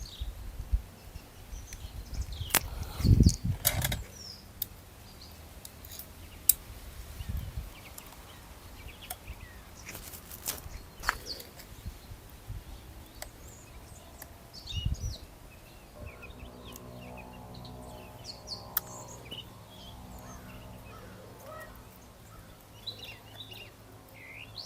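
Birds chirping outdoors, with scattered knocks and thumps from handling things close by, the loudest about three seconds in. A faint steady hum comes in about two-thirds of the way through.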